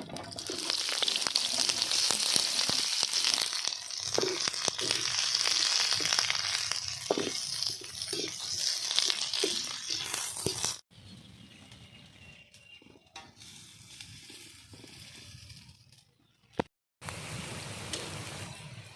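Onions frying in hot oil in a kadai, a loud, even sizzle. It cuts off suddenly about eleven seconds in, leaving a much fainter background.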